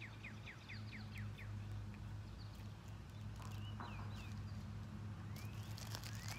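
Birds singing outdoors: runs of quick, short descending whistled notes, several a second, coming and going, over a faint steady low hum.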